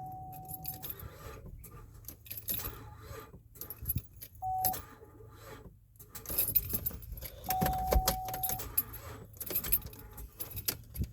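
Ignition keys jangling and clicking as the key is worked in a 2011 GMC Acadia whose battery is dead, so the engine does not turn over. A steady beep sounds several times, briefly.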